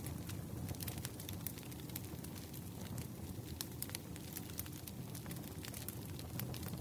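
Wood fire crackling: scattered sharp pops and snaps at irregular intervals over a low, steady rumble.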